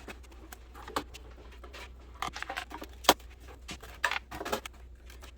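Irregular metallic clicks, taps and rattles of small parts and hand tools being handled while a vintage office intercom is taken apart, with one sharp click about three seconds in.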